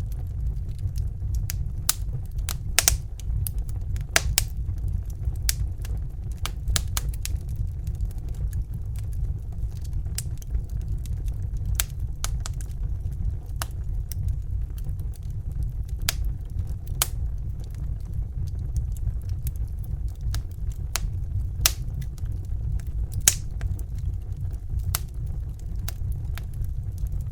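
Fire crackling: irregular sharp pops and snaps, some louder than others, over a steady low rumble.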